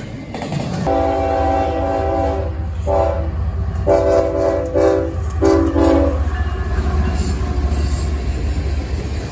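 Diesel locomotive air horn sounding a multi-note chord in several blasts: a long one starting about a second in, then shorter ones ending about six seconds in. Under it runs the steady low rumble of a freight train.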